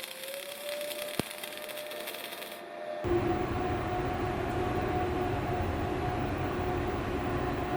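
Semi-automatic (MAG) welding arc crackling and sizzling. About three seconds in it cuts off abruptly to a louder, steady mechanical hum with a low rumble.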